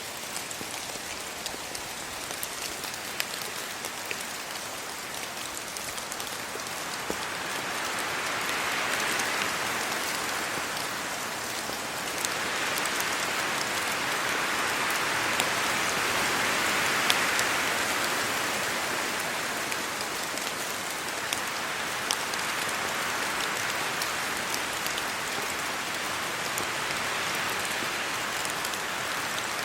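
Steady rain falling on trees and leaves, a dense even hiss with scattered sharper drop ticks. It swells louder twice, around nine seconds in and again, more strongly, around seventeen seconds.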